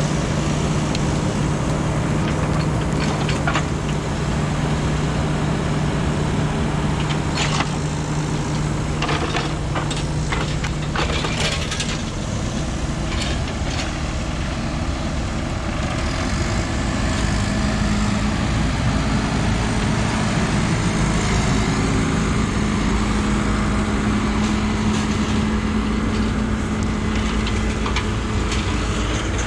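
Heavy diesel machinery engine running steadily, settling at a higher engine speed about halfway through. A cluster of sharp knocks and clanks comes in the middle.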